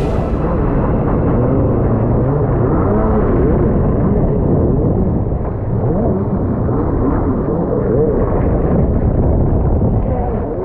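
Superjet stand-up jet ski engine revving up and down again and again while riding waves, over a dense rush of wind and water noise.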